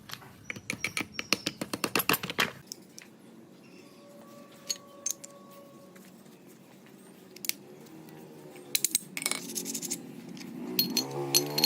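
Metal clicks and clinks: a fast run of sharp clicks in the first couple of seconds, then scattered single knocks.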